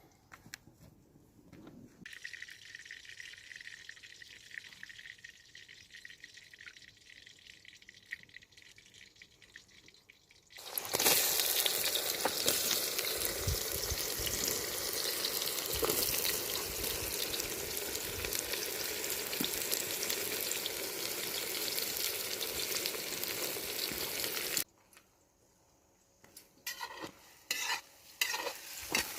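Food frying in hot oil in a kazan: a loud, even sizzle starts suddenly about eleven seconds in and cuts off abruptly a few seconds before the end, followed by light clicks and knocks.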